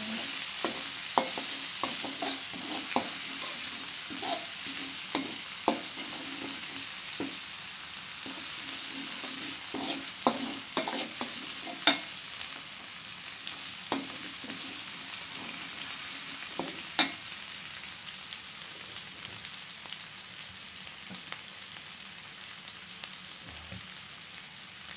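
Ground spice paste sizzling in hot oil in a wok, with a metal spatula scraping and clicking against the pan as it is stirred. The clicks come often at first and thin out in the last third while the sizzle runs on.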